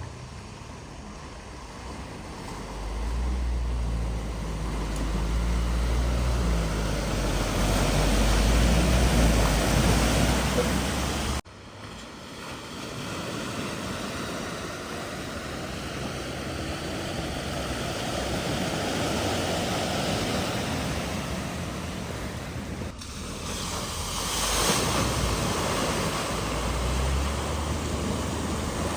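Vehicles driving through deep floodwater: a steady rush of displaced water and spray over a low engine rumble, cut off abruptly and resumed twice.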